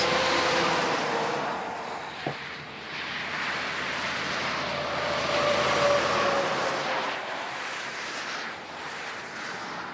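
Heavy truck driving past on a road: a steady rush of engine and tyre noise that swells, loudest around six seconds in, then fades.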